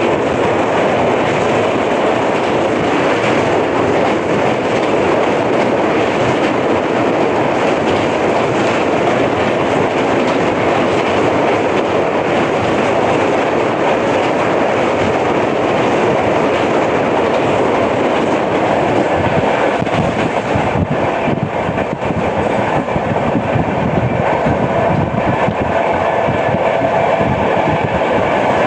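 Passenger train coaches running at speed on the track, heard from on board: steady rolling noise with wheel-on-rail clatter. The uploader calls this the sound of a flat wheel.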